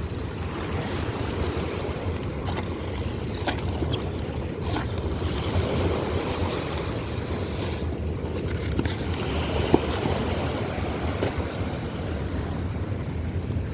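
Steady rush of fast river current with a low wind rumble on the microphone. A few light clicks and rattles come and go, which the angler puts down to his necklace.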